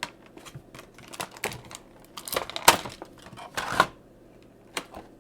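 Toy packaging being handled and opened: a run of sharp clicks and taps on cardboard and plastic, with two louder rustling scrapes in the middle.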